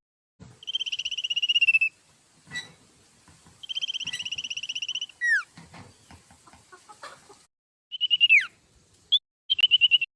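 Common iora singing: two fast rattling trills of quickly repeated notes, each about a second and a half long, broken by sharp downward-sliding whistles, with a short trill near the end.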